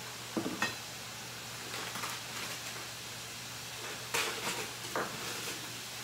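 Yellow squash and onions frying in a cast iron skillet: a steady sizzle over a low hum, with a few short knocks of pots or utensils about half a second in and again around four and five seconds.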